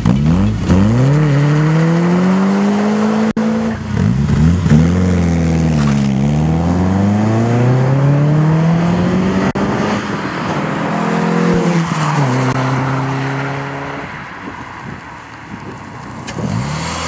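Peugeot 306 S16's 2.0-litre 16-valve four-cylinder engine revving hard as the car accelerates. Its pitch climbs and then drops back sharply at each gear change. Later it settles to a steady, lower note, fades somewhat, then rises again near the end.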